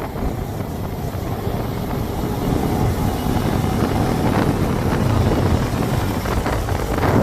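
Wind buffeting the microphone, a steady low rumble with no clear engine note.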